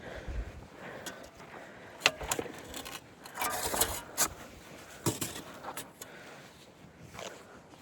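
Footsteps and scuffs on sandy, rocky dirt with scattered knocks and clicks, and a short scraping rush about halfway through.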